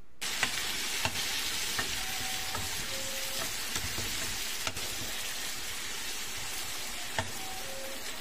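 Chopped tomatoes sizzling in hot oil with fried onions and ginger-garlic paste in a black wok. A perforated metal spatula stirs them, with occasional sharp taps and scrapes against the pan.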